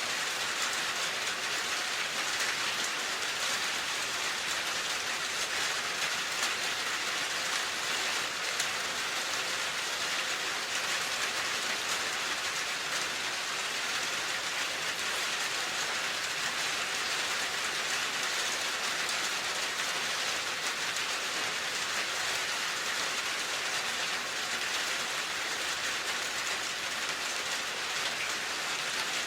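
Steady rain falling, a dense even hiss of many small drops with fine crackle and no pauses.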